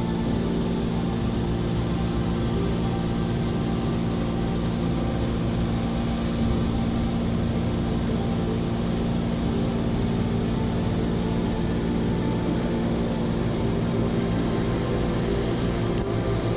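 Small propeller aircraft engine running steadily, a constant drone at an even pitch.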